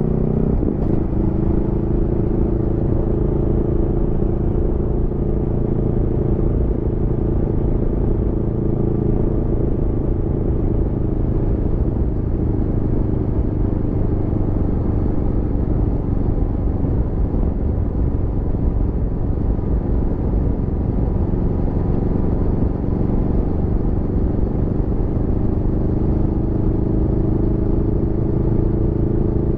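Aprilia Tuono V4 motorcycle's V4 engine running at fairly steady revs under way, with road and wind noise. The engine note dips briefly about a second in, then holds steady and rises slightly near the end.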